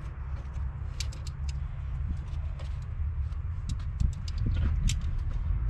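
Irregular light clicks and taps of a hand wrench on metal bolts, over a steady low rumble.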